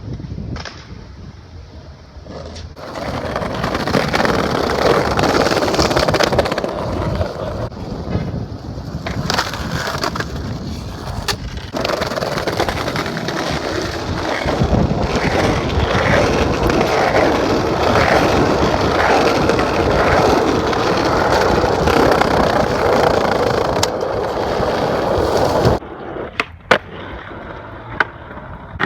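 Skateboard wheels rolling over pavement in a long steady run that starts about three seconds in and stops near the end, with a couple of sharp clacks of the board along the way.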